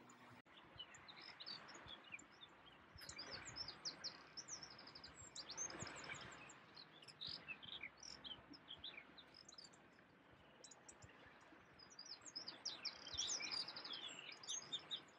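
Small birds chirping, faint: many quick high calls coming in busy bursts, over a soft steady hiss.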